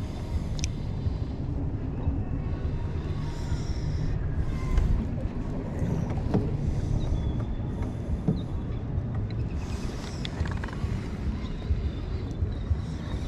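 Wind rumbling on the microphone over water lapping against a kayak, with a few light knocks.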